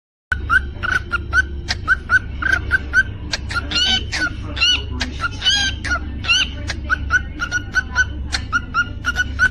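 Cockatiel chirping and whistling: a quick run of short repeated chirps, about three a second, with a few longer whistled notes that rise and fall partway through, over a steady low hum.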